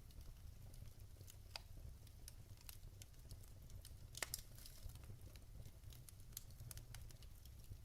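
Wood fire crackling: logs burning with frequent small irregular snaps and pops, one louder pop a little past halfway, over a soft low rumble.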